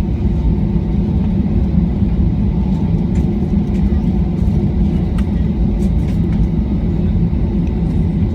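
Steady low rumble of an aeroplane's engines running before take-off, with no rise or change in pitch.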